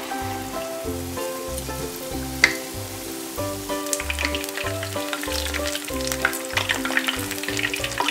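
Battered hake strips frying in hot oil in a pan: a steady sizzle with fine crackling that grows denser about halfway through. Background music with a regular bass beat plays throughout.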